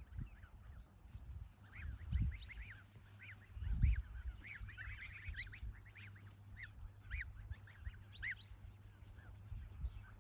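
Domestic geese honking in a flock, many short calls overlapping, thickest around the middle. A low rumble sits under the calls, loudest about four seconds in.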